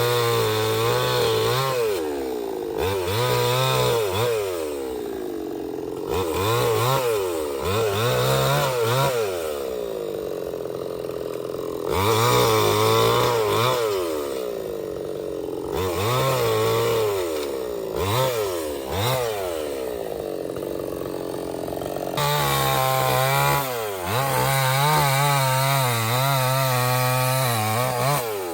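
Stihl 070 two-stroke chainsaw cutting teak wood: the engine pitch drops as the chain bites into the wood and rises again as it revs free, over and over every few seconds, with a longer cut near the end.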